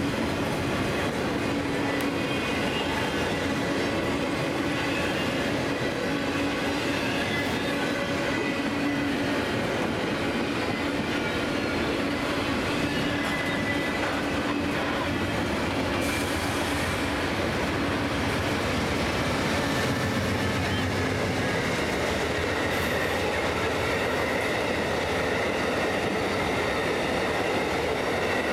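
CSX double-stack intermodal freight train rolling past, a steady rumble of wheels on rail with a faint high wheel squeal. An Amtrak passenger train runs alongside toward the end.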